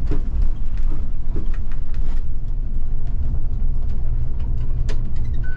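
City bus running, heard from the driver's cab: a steady low rumble with a few rattles and clicks, the sharpest one near the end.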